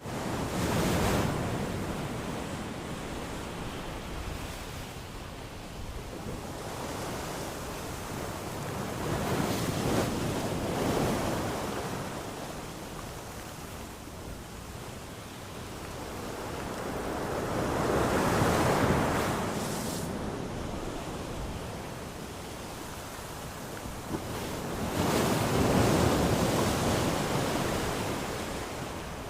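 Sea waves breaking on a shore, four in turn, each swelling up and washing back out, about eight seconds apart.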